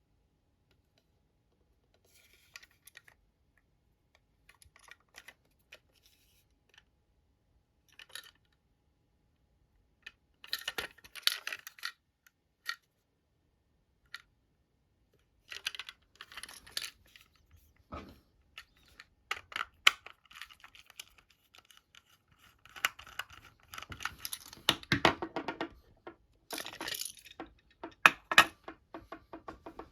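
Handling noises from unpacking a plastic toy train: packaging rustling and tearing, and plastic parts clicking and knocking. Sparse and faint at first, then busier and louder from about ten seconds in.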